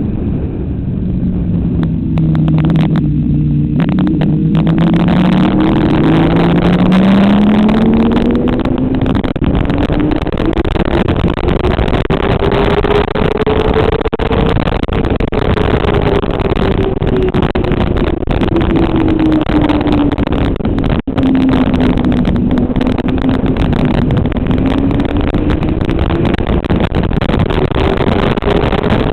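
Motorcycle engine on track at speed, under a constant rush of wind. It drops through the revs at the start in a few steps, pulls up in one long rise, and eases off gradually. Then it climbs again near the end.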